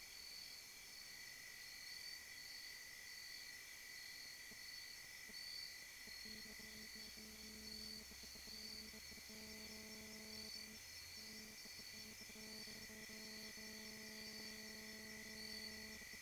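Faint steady chorus of insects, a high-pitched trill with a pulsing higher band above it. About six seconds in, a faint low steady hum joins.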